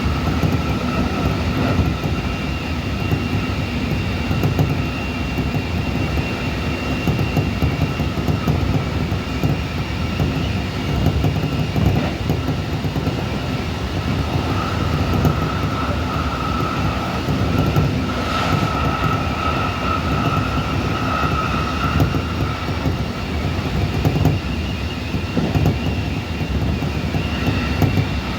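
Keikyu 1500 series electric train running, its Mitsubishi IGBT VVVF inverter and traction motors giving a steady whine over the rumble of wheels on the rails. The whine grows louder for several seconds around the middle.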